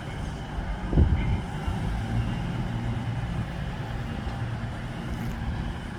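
CrossCountry diesel passenger train pulling away from the platform, its engines running with a steady low drone. A thump about a second in is the loudest moment.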